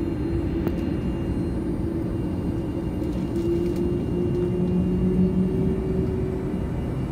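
Airbus A330 engines heard from inside the cabin before takeoff: a steady low rumble with a constant hum.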